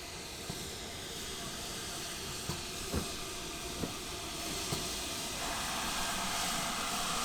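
Steam train with a steady hiss of steam that grows louder about two-thirds of the way through, and a few scattered knocks.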